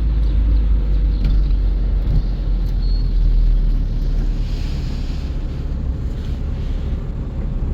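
Steady low rumble of a car in motion, heard from inside: engine and road noise.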